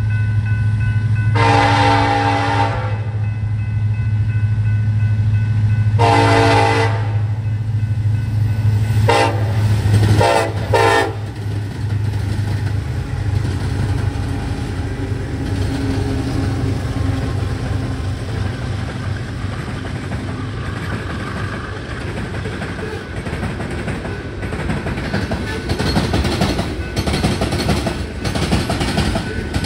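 Diesel freight locomotives running as the train approaches, the lead unit's multi-chime horn sounding two long blasts and then a quick series of short ones. After the locomotives pass, loaded rock gondolas roll by with their wheels clicking and clattering on the rails.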